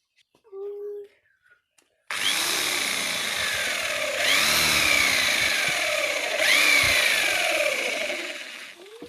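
Small electric power tool, such as a mini drill, starting suddenly and running loud, its motor pitch sagging three times about two seconds apart as it bites into the plastic, then winding down near the end.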